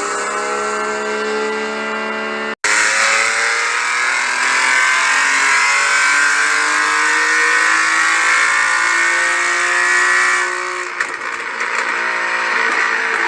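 Car engines and exhausts accelerating, the engine note rising steadily in pitch. About two and a half seconds in the sound cuts off abruptly and a louder car takes over, climbing in pitch again, and near the end it changes once more to another engine.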